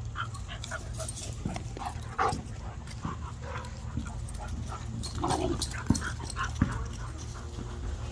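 Labrador retriever puppies making small, short vocal sounds and moving about, with a couple of sharp knocks about six seconds in, over a steady low hum.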